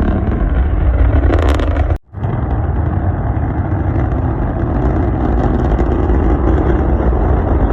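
Starship SN10 prototype's rocket engines firing: a loud, steady deep rumble, broken off abruptly about two seconds in and then picking up again at the same level.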